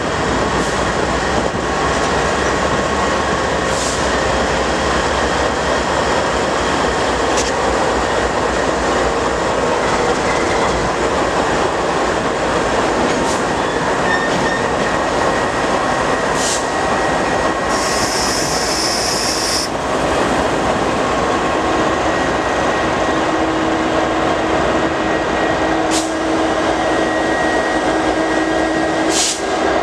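Railcars of a passing train rolling by, with steady high-pitched wheel squeal and occasional clicks of wheels on rail joints. A brief hiss comes a little past the middle.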